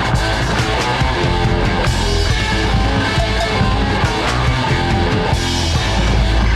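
Late-1970s punk-style rock band playing an instrumental passage: electric guitar, bass and drum kit at a steady driving beat, with no singing.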